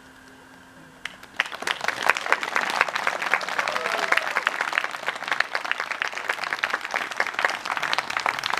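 An audience applauding, starting about a second in after a held musical tone fades, with a short whoop about halfway through.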